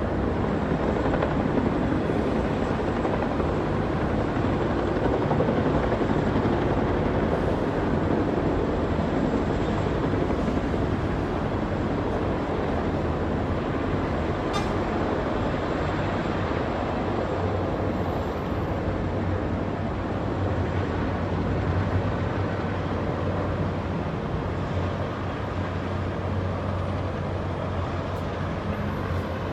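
Aircraft engine noise at an airshow: a steady, loud rumble and roar with a low hum, fading a little near the end.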